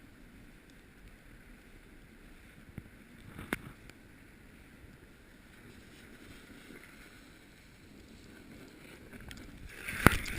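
Snowboard sliding down a slope: a steady rushing hiss of the board on snow with wind on the microphone, a single knock about three and a half seconds in, and louder scraping with sharp knocks near the end.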